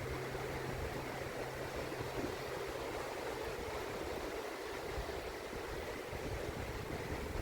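Gentle surf washing steadily onto a shallow sandy beach, with wind buffeting the microphone.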